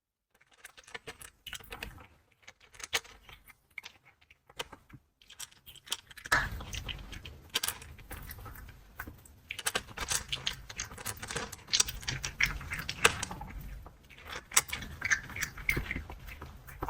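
Cat eating dry kibble: dense, irregular crunching and clicking, louder from about six seconds in.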